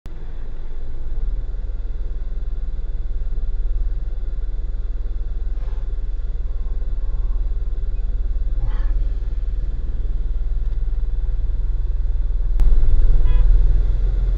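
Car on the move: a steady low rumble of engine and road noise, which gets louder about 12.5 seconds in.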